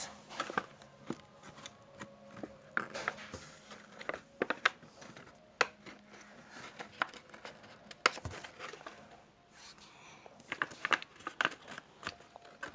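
Paper model train being handled: scattered light rustles of paper and small sharp taps and clicks, irregular and short.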